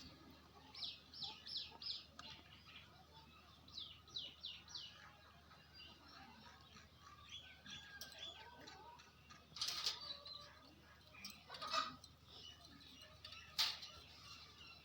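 Parrots calling with short, quick falling chirps in runs of three or four, mixed with other scattered calls. There are three louder sharp calls about ten, twelve and fourteen seconds in.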